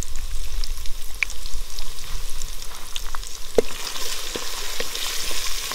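Chili powder and spices frying in hot oil in an aluminium pot, sizzling steadily while a wooden spatula stirs and knocks against the pot, with scattered sharp clicks. The sizzle grows stronger about four seconds in.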